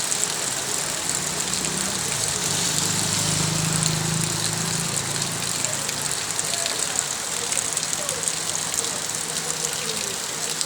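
Steady rain with a hiss and a dense patter of drops. A low engine hum joins in about a second in and fades out around six seconds in.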